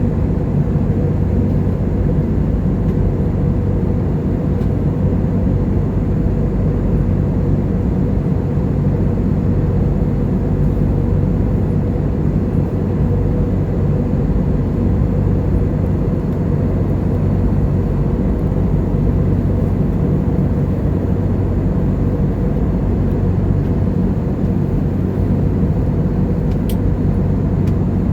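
Steady drone inside a passenger airliner's cabin: the engines and rushing air make an even low rumble with a few held low tones. A faint click comes near the end.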